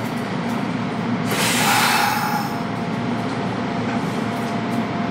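Kintetsu train car standing at the platform before departure: the steady hum of its onboard equipment. A loud burst of hiss starts about a second and a half in and lasts about a second.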